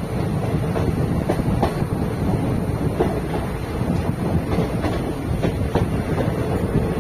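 Passenger train coaches running on the track: a steady rumble of wheels on rail with scattered clicks and clatters as the wheels pass over rail joints.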